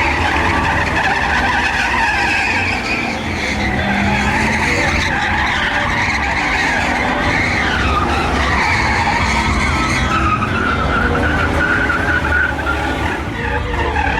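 Truck doing a burnout: tyres squealing steadily over the running engine.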